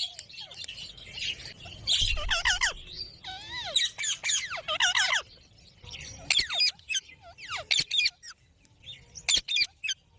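Pet green parrots squawking and screeching in a series of calls that drop in pitch, with several calls in quick succession. Near the end come a few short, sharp calls.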